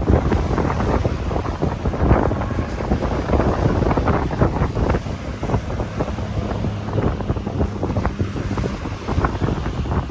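Strong gusting wind buffeting the microphone, with ocean waves surging and breaking beneath it; the rumble rises and falls irregularly with the gusts.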